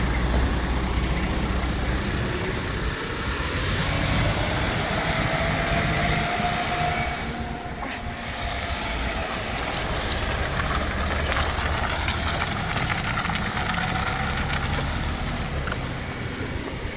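Rubbish truck's diesel engine running steadily, with a faint whine that rises and falls in pitch around the middle.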